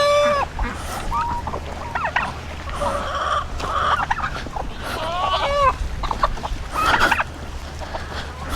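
Chickens clucking, with a string of short calls and squawks.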